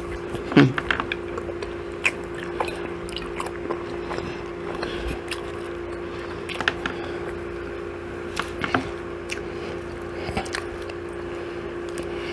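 A person biting and chewing chicken and waffles, with scattered short wet mouth clicks over a steady low hum.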